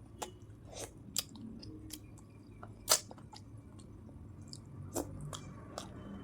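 Close-miked chewing of a mouthful of paneer fried rice: soft wet chewing with many short, sharp mouth clicks, the loudest about three seconds in.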